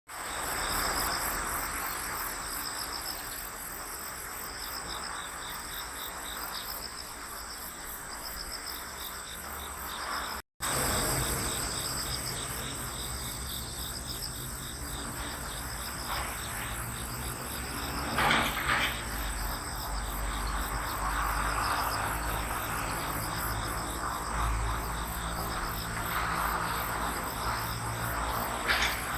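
Autumn crickets chirping steadily in pulsed trills over a background hiss of open country. The sound breaks off for a moment at a cut about ten seconds in, and a brief sharper call stands out about 18 seconds in and again near the end.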